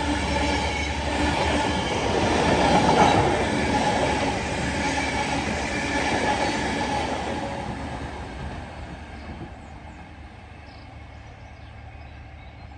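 A locomotive-hauled train passing: a Class 57 diesel dragging a failed, unpowered Class 91 electric locomotive and its coaches, wheels running over the rails. Loudest about three seconds in, then fading steadily over the second half as the train draws away.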